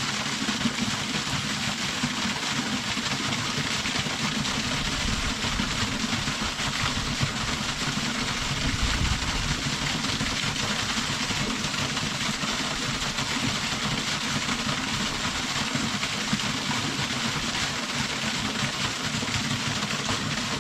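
Small shrine waterfall whose water pours out of a dragon's-mouth spout, making a steady rushing noise with a low rumble under it.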